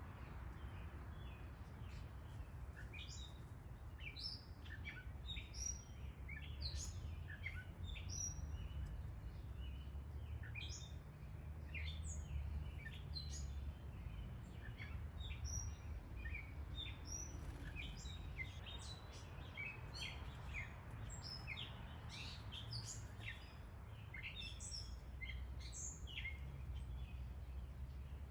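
Backyard birds chirping: many short, quick calls, one after another, over a steady low rumble.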